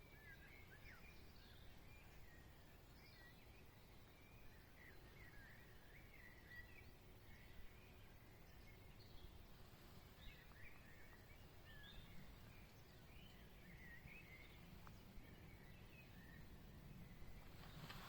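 Faint birdsong in woodland: a steady stream of short chirps and twittering warbles from small songbirds, over a low background rumble.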